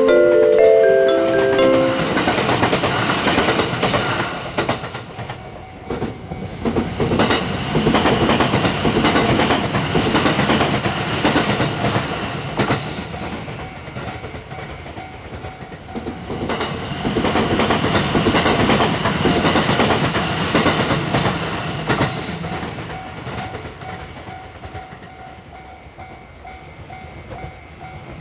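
JR West 287-series electric train passing at speed, its wheels clacking over the rail joints. The noise swells and eases in several surges and fades near the end.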